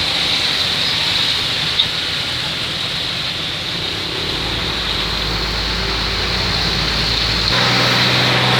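Steady engine, road and rain noise inside a moving bus's cabin on a wet road. A deeper rumble swells in the middle. About 7.5 seconds in, a steady low hum comes in and the level rises slightly.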